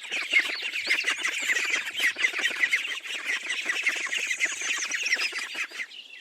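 Ducklings peeping: a dense stream of rapid, high, overlapping peeps that stops shortly before the end.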